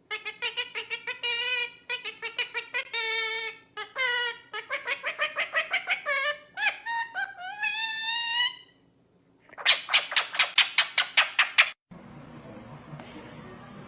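A pet bird calling in a series of high, pitched calls that waver and slide in pitch, then a quick run of sharp repeated calls, about eight a second. Near the end the sound cuts abruptly to a steady low background noise.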